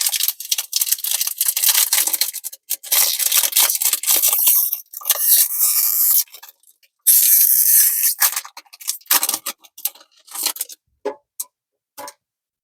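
Foil wrapper of a Pokémon trading card booster pack crinkling and tearing as it is opened, in dense rustling bursts for about eight seconds, then a few light clicks near the end.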